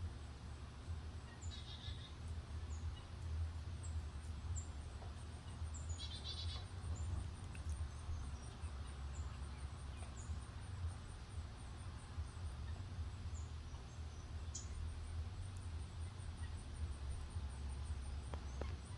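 Small birds calling: short, high, falling chirps about once a second and a thin, fast trill, with two brief rapid rattles near the start, over a steady low rumble of outdoor background noise.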